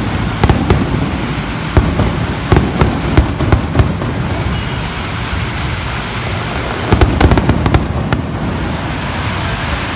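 New Year fireworks going off: clusters of sharp bangs and crackles, the first over the first four seconds and the second about seven seconds in, over a steady background din.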